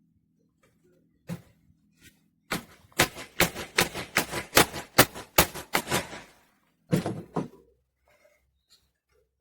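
A run of about ten sharp knocks, two to three a second, followed a second later by two more.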